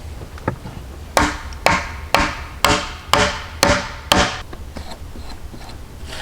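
A hand tool striking wood: seven steady, evenly spaced blows about two a second, each with a short ringing tail.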